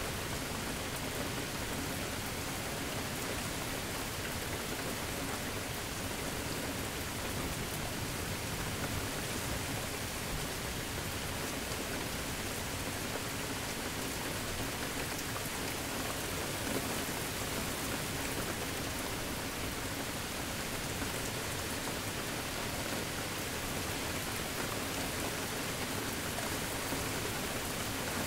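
Steady rain falling: an even, unbroken hiss of rain and drops on surfaces.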